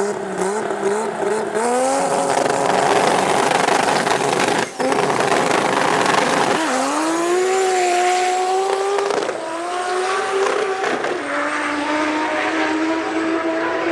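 Race car engine under hard acceleration, its pitch climbing and then dropping sharply at three gear changes. There is a brief dropout about five seconds in.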